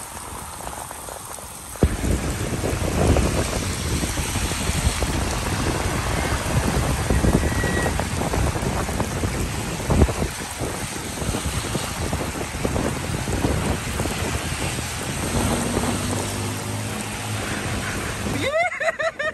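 Heavy rain squall and runoff water rushing down a flooded street, a dense steady noise that gets suddenly louder about two seconds in. A voice calls out briefly near the end.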